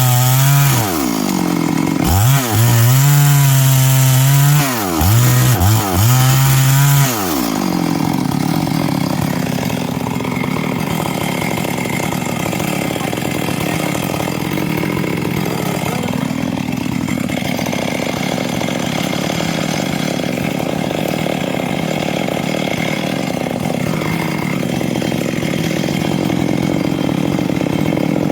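Stihl MS 382 two-stroke chainsaw with a 24-inch bar, revved up and down several times over the first seven seconds or so. It then settles into a steady, lower-pitched run under load as it cuts through wood.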